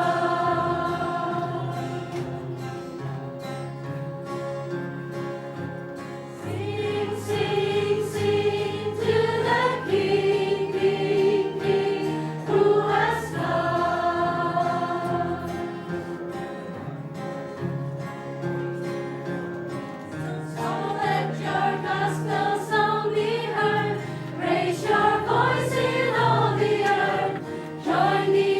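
A group singing an uplifting Christmas worship song together, accompanied by guitars, with held sung notes over a steady low accompaniment.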